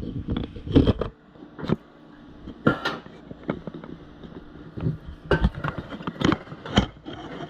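An irregular run of knocks, clatters and scrapes as things are handled and set down, about a dozen sharp hits with the loudest near the start and again around five to seven seconds in.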